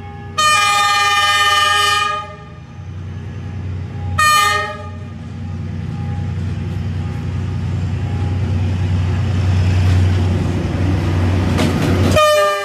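Diesel locomotive sounding its horn: one long blast of several tones, a short toot a couple of seconds later, and another blast starting near the end. Between the blasts the locomotive's engine rumble grows louder as it approaches and passes close by.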